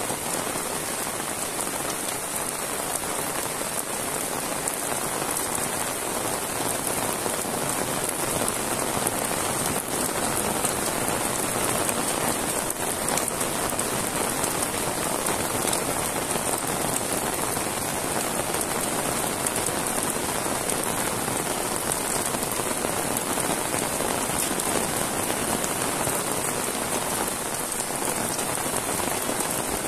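Heavy rain falling steadily, an even, unbroken hiss of drops on grass and wet paving.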